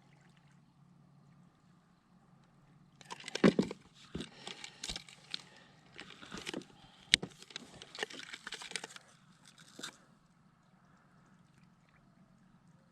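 Water splashing and sloshing in irregular bursts, mixed with sharp knocks and clicks, from about three seconds in to about ten seconds in.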